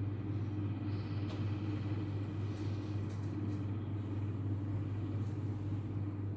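A steady low hum over an even background noise, with a few faint clicks.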